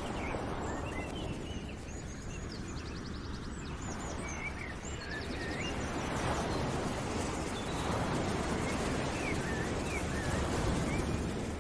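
Birds chirping and trilling over a steady rushing background noise, with short calls scattered all through.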